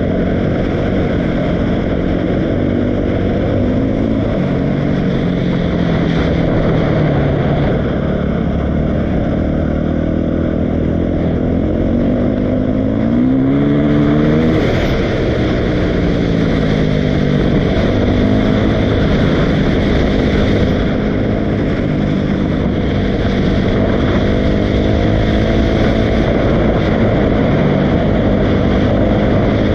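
Dirt bike engine running continuously, its pitch rising and falling as the throttle is opened and closed, with a climb about 12 seconds in and a drop a few seconds later.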